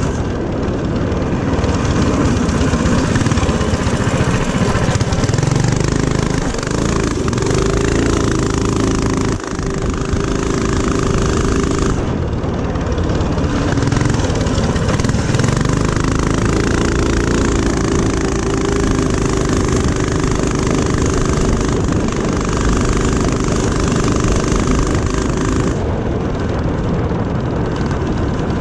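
Single-cylinder mini-bike engine running hard on a dirt track, its pitch rising and falling with the throttle, with a brief dip about nine seconds in.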